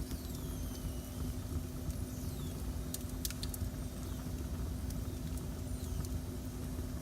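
Wood fire burning in a fireplace: a steady low rumble with a faint constant hum, sharp crackling pops a few times around the middle and once near the end, and thin high whistles that slide downward in pitch.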